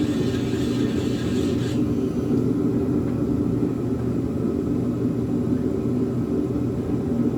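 Dremel rotary tool running steadily at low speed while grinding out a header bolt hole to enlarge it. A grinding hiss stops about two seconds in while the motor keeps running.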